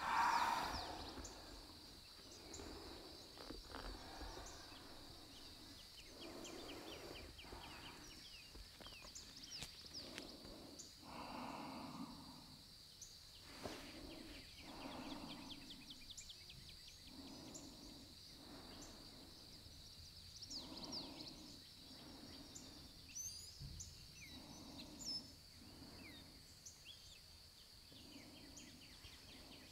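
Faint birdsong: scattered short chirps and trills over a steady faint hiss, with soft low sounds recurring every second or two and a brief louder sound right at the start.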